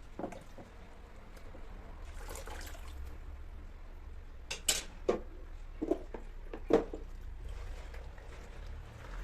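Kitchen handling sounds: a handful of short, light knocks and clinks between about four and seven seconds in, over a faint steady hiss.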